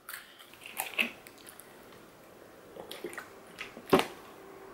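A person chewing a mouthful of chow mein and rice close to the microphone, with soft wet mouth clicks and smacks. There is a sharper single click about four seconds in.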